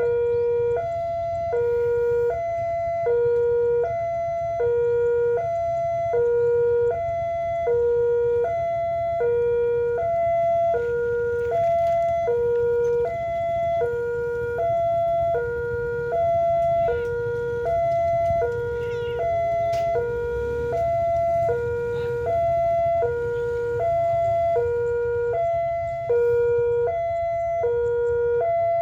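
Railway level-crossing warning alarm sounding steadily, an electronic two-tone signal switching back and forth between a low and a high note about every half second, over a steady low rumble.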